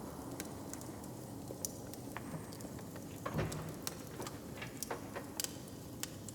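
Wood fire crackling, with sharp irregular pops and a louder pop about three seconds in, over a low steady rumble.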